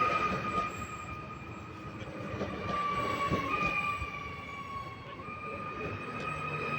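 Train passing with its wheels squealing in a steady high tone that steps slightly in pitch a few times, over the rumble and clicks of the wheels on the rails.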